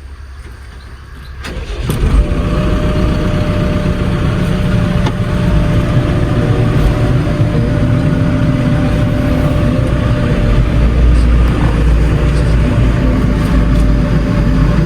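Heavy diesel engine of construction machinery coming in loudly about two seconds in, then running steadily with a low rumble.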